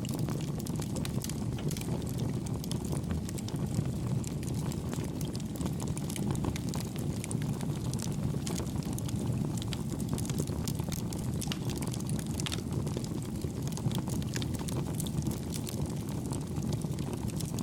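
Campfire burning with a steady low rushing sound and many small, soft crackles scattered throughout at an even level.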